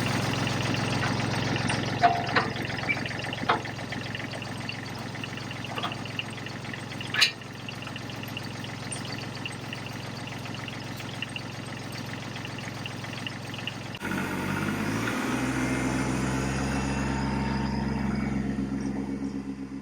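Tractor engine running steadily, with a few sharp knocks in the first half. About two-thirds of the way through, the engine sound changes to a steadier, deeper hum.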